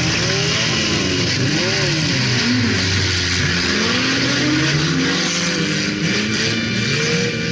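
Several stock cars' engines revving as the cars race past on a dirt track, their pitches rising and falling and overlapping, over a steady hiss.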